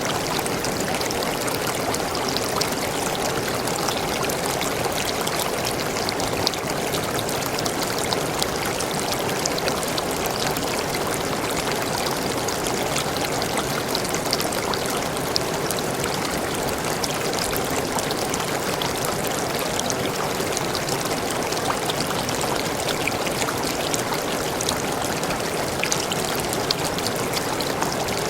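Forest waterfall: water pouring and splashing in a steady, unbroken rush, with fine splashes on top.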